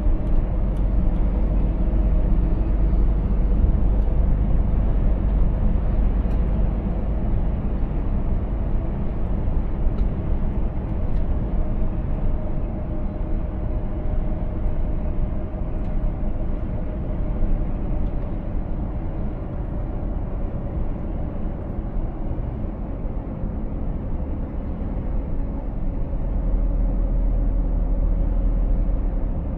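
Scania S500 truck driving along at a steady pace: an even drone of its 13-litre straight-six diesel and tyre noise, heaviest in the low end, with a faint steady whine above it.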